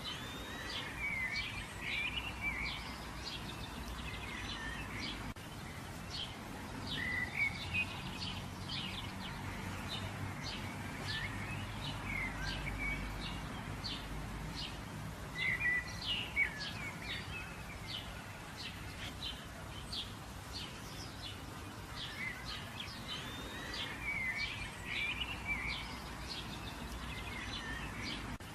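Birds chirping and calling, many short rising and falling chirps in quick, irregular succession, over a low steady background rumble.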